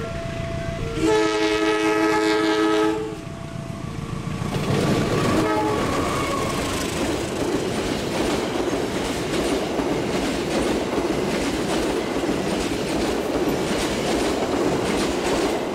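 Locomotive horn sounding a loud chord for about two seconds as the train approaches, then a brief second toot. The passenger coaches follow, passing close by with a steady rolling rumble and clickety-clack of the wheels.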